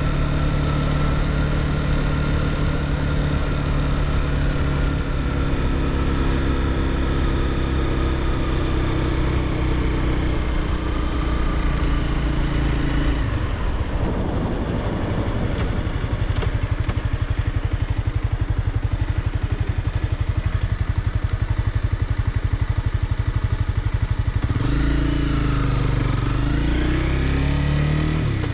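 Honda CBR300R's single-cylinder engine running at steady revs, then easing off about 13 seconds in to a slow, even beat. Near the end the revs climb again, rising and dipping as the bike pulls away.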